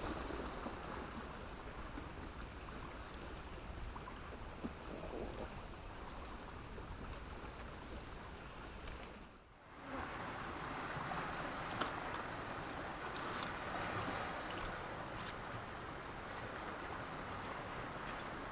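Small sea waves washing over a beach of black stones and sand: a steady wash with a short lull about halfway through, then a brighter fizz with light clicking in the second half.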